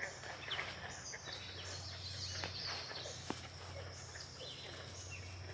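Insects trilling in high-pitched bands that start and stop in overlapping stretches, over a low steady hum and a few faint clicks.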